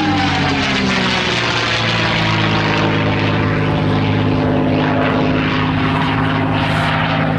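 P-51D Mustang's Packard-built Merlin V12 engine and propeller running steadily in a flypast, the engine note sliding slightly lower in the first second, then holding steady.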